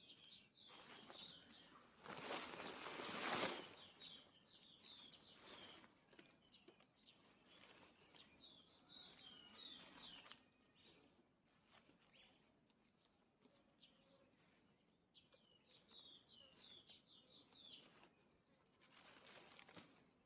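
Birds chirping in short, quick phrases of high notes, repeated several times. A brief rustling noise, the loudest sound, comes about two seconds in, and a smaller one comes near the end.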